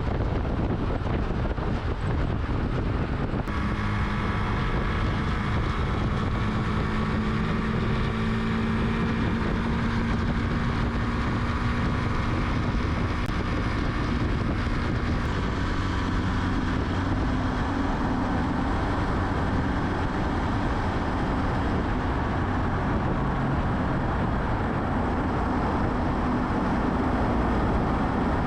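Honda Super Cub's single-cylinder four-stroke engine running on the move, under heavy wind noise on the microphone. The engine note rises and falls slightly, and the sound changes abruptly a few seconds in.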